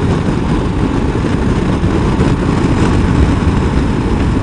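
Motorcycle cruising at highway speed: a loud, steady rush of wind and road noise with the engine running underneath.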